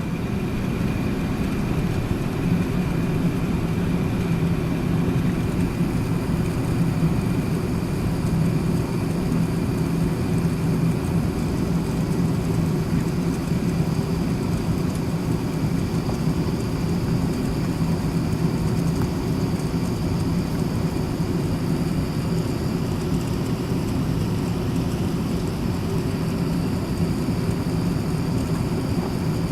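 Steady cabin noise inside an Airbus A380-861: its Engine Alliance GP7200 engines running with a low, even hum and faint high whine, with no spool-up.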